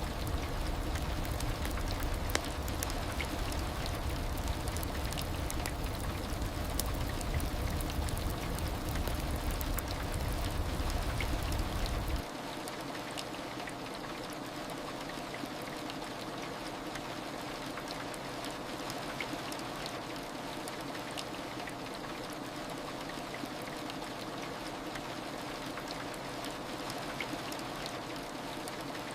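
Steady heavy rain with fine pattering drops. About twelve seconds in, the deep rumble underneath drops out suddenly and the rain goes on a little quieter.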